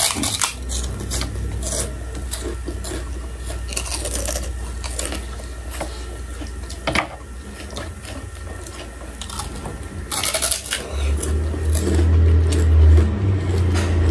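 Close-up crunching and chewing of puffed snack sticks, with many short, sharp crunches. About eleven seconds in, a loud low rumble joins and becomes the loudest sound.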